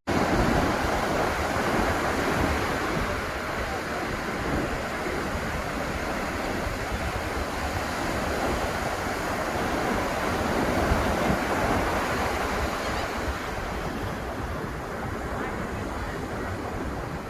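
Atlantic Ocean surf breaking and washing ashore, a continuous rush of water that swells and eases gently.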